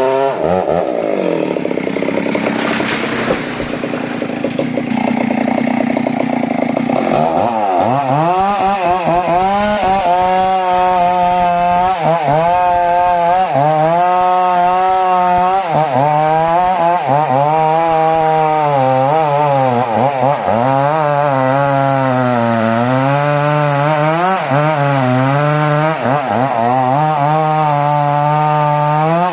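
A two-stroke chainsaw is running at high revs and cutting into jowar (Senna siamea) wood while the tree is being felled. For the first seven seconds it has a rough cutting rasp. After that its pitch repeatedly sags under load and recovers every second or two.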